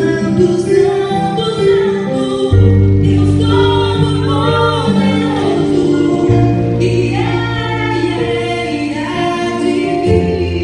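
Music: a woman singing a Christian worship song over sustained instrumental chords, with a low bass coming in about two and a half seconds in.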